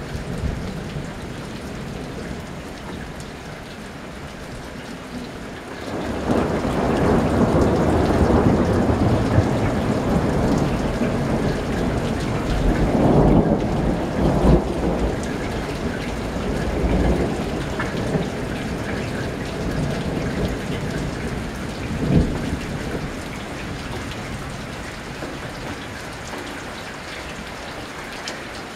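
Rolling thunder over steady rain. About six seconds in, a long low rumble swells, peaks several times, and adds a short sharper clap later on before it slowly dies away under the rain.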